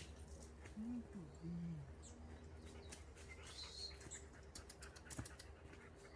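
A few faint bird calls: two short low notes about a second in, then a brief rising chirp near the middle, over a quiet background with scattered faint clicks.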